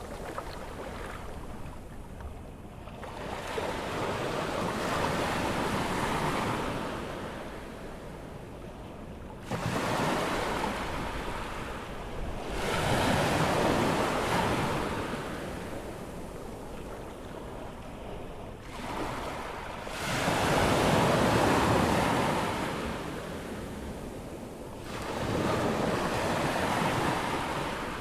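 Ocean surf on a sandy beach at an incoming tide: waves break and wash up the shore one after another, each rising in a surge of noise and then fading, a new one every few seconds.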